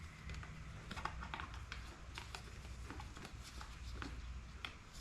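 Faint, irregular light clicks and taps of small parts being handled, such as a plastic number plate against the bike's front end, over a low steady hum.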